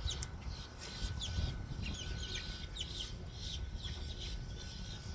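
Birds chirping: many short, quick falling calls, over a steady low rumble and a faint steady high tone.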